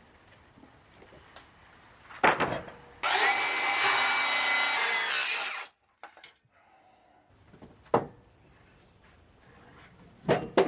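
Power saw cutting through a cedar fence board for just under three seconds, starting and stopping abruptly, with a few wooden knocks of boards being handled before and after.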